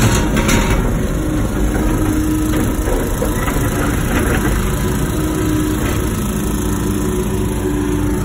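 Wacker Neuson ET145 excavator running steadily under load, with a hum that rises and falls several times as the hydraulics work. A couple of sharp knocks right at the start.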